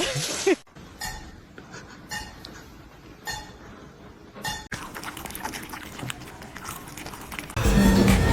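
A short animal call right at the start, then scattered sharp clicks and clinks about once a second. Music comes in near the end.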